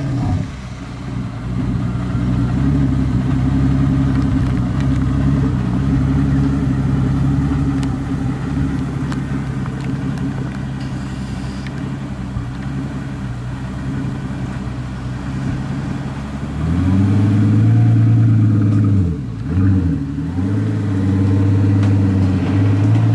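Car engine running with a steady note; about two-thirds of the way through the revs climb, dip briefly and rise again.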